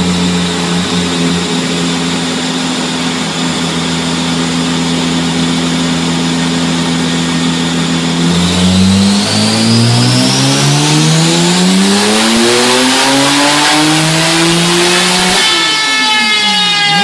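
Turbocharged engine running at steady revs, then revving up for several seconds with a thin high whistle rising with it, holding high, and dropping away sharply near the end.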